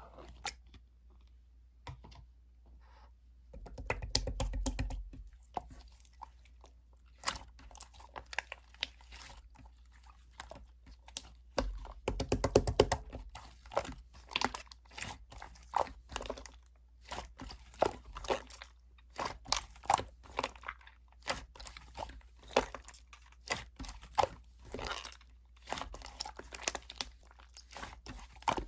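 Clear slime being kneaded and mixed by hand, giving many short wet clicks and pops. The sounds start a few seconds in and come in denser, louder stretches about four and twelve seconds in.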